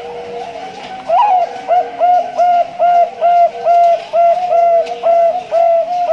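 Male Bangkok-line zebra dove (perkutut bangkok) singing. About a second in it starts a fast run of short cooing notes, about three a second, that ends on a longer held note.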